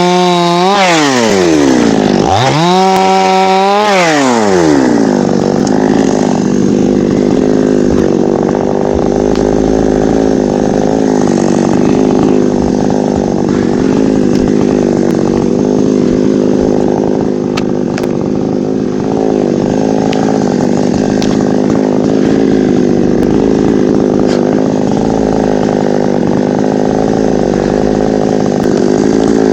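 Chainsaw cutting teak wood: in the first few seconds the engine note drops and climbs back up twice, then it settles to a lower, steady pitch as the saw runs under load through the cut.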